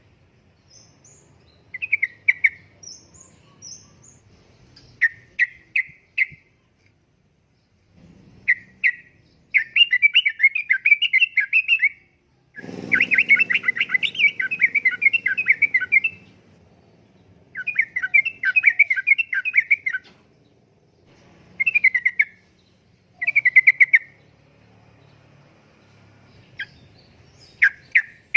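Yellow-vented bulbul (trucukan) singing in repeated bubbly, chattering phrases of one to three seconds, with short pauses between them.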